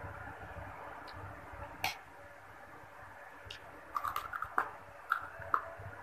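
Crisp crunching as stick-shaped prawn crackers (kerupuk udang) are bitten and chewed: a quick run of crunches about four seconds in and two more near the end. A single sharp clink of a metal spoon on the plate comes a little before that, over a steady low hum.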